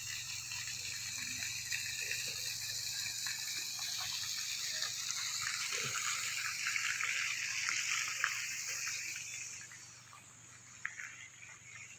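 Steady rushing of running water, fading away near the end.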